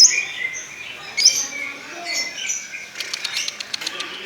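Lovebird calling in short, high chirps, with a rapid run of clicking chatter about three seconds in: the fast 'konslet' voice that lovebird keepers prize.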